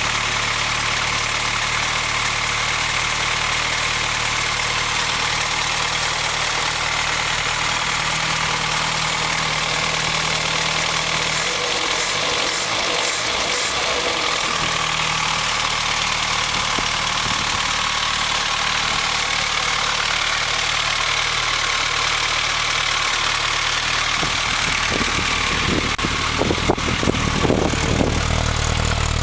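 1973 MG Midget's 1275 cc A-series four-cylinder engine running steadily, freshly started and cold after sitting unrun for 15 years. The engine note shifts briefly about halfway through, and a few sharp clicks come near the end.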